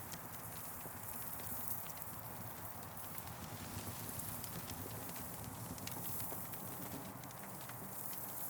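Campfire burning, with irregular sharp crackles and pops over a steady low rumble and hiss.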